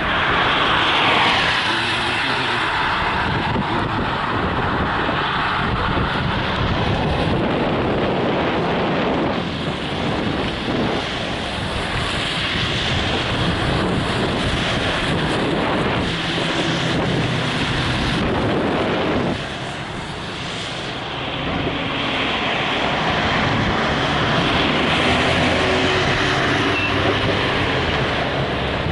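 A car travelling along the road: steady road and engine noise with wind buffeting the microphone, easing briefly about two-thirds of the way through.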